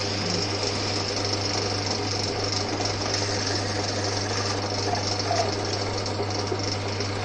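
Old Winfield metal lathe running steadily, its electric motor and drive giving a constant low hum under an even mechanical whir.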